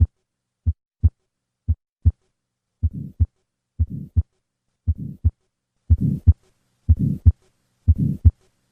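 Recorded heart sounds at about 60 beats a minute. The first few beats are clean pairs of first and second heart sounds, then a systolic murmur is added that fills the gap between them and grows stronger toward the end.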